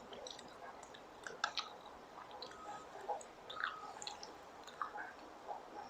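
Close-miked chewing, faint, with scattered small wet mouth clicks and crackles.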